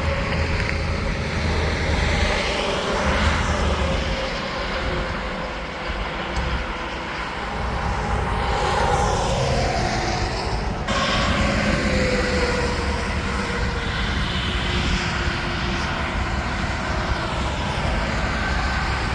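Interstate highway traffic with tractor-trailers passing one after another: tyre roar and diesel engine rumble swelling and fading, the pitch dropping as each goes by.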